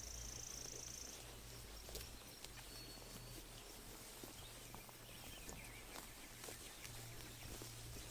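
Sheep grazing close by: faint, scattered clicks and crunches of grass being torn and chewed. A high, thin, steady note sounds through about the first second, and a brief faint whistle comes a little later, over a low steady hum.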